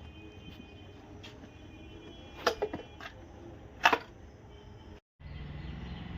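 A few scattered sharp knocks and clinks of hand tools and metal parts being handled in a workshop, then, after a brief dropout, a steady low hum.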